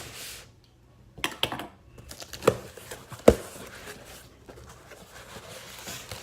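Shipping package being opened by hand: packaging tearing and crinkling, with a few sharp knocks, the loudest about three seconds in.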